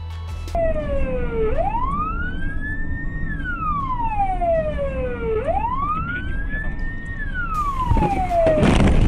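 Emergency-vehicle siren wailing, rising slowly, holding briefly and falling again, twice, over a low vehicle rumble. A loud burst of rushing noise comes near the end.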